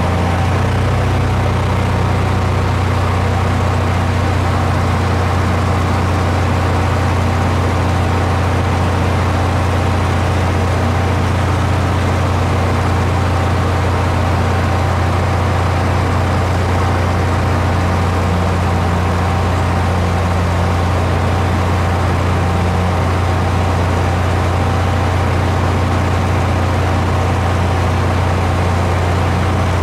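Steady, unchanging drone of an aircraft engine with a strong low hum.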